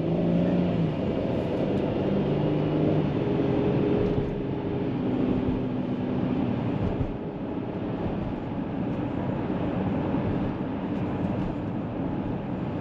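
A van driving, heard from inside the cabin: a steady low engine and road rumble, with the engine's hum shifting to new pitches a few times as the speed changes.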